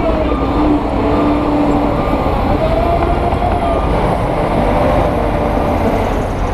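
Heavy diesel earthmoving machinery running steadily, a deep engine drone with a whine that wavers slowly in pitch.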